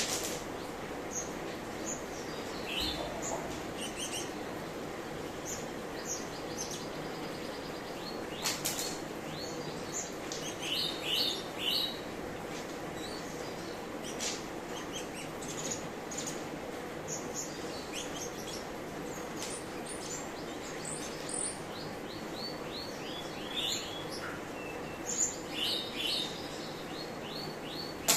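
Cucak cungkok singing: scattered short chirps and quick clusters of high notes, coming in bursts with brief gaps, over a steady background hiss.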